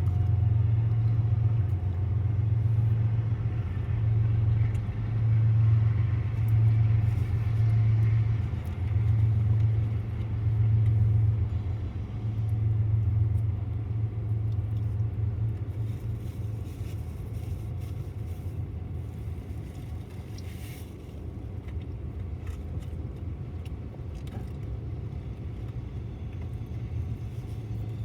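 Diesel locomotives of a BNSF intermodal freight train, giving a low rumble that swells and fades in waves for about twelve seconds, then steadies and eases off a little.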